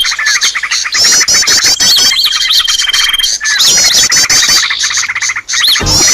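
Bird-lure recording of many small birds chirping and twittering at once, a dense, loud chorus of overlapping chirps and trills with the same phrases coming round again and again. A brief low thud sounds near the end.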